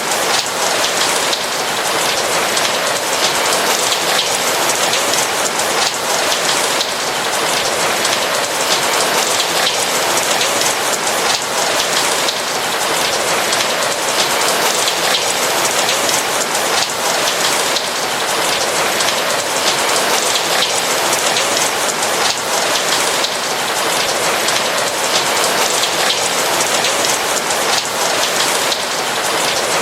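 Steady rain falling: a dense, even hiss of many small drops, with no thunder.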